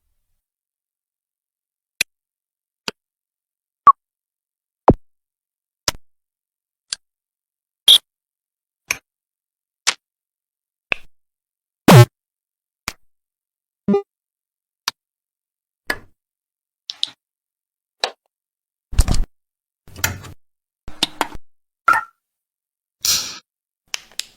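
A sequence of different button click sound effects, one short click about every second with silence in between. From about 19 seconds in the clicks grow longer, and some come as quick double or triple clicks.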